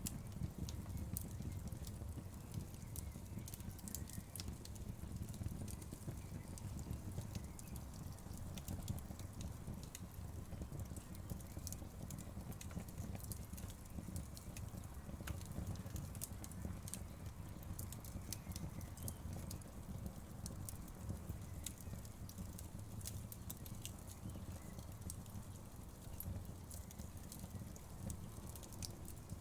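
Wood fire crackling: frequent sharp pops and snaps of burning logs over a steady low rumble of flame.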